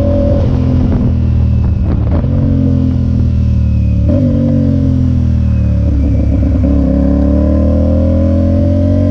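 Motorcycle engine running while riding, its pitch sliding down and stepping back up a few times with gear changes, then climbing near the end as it accelerates.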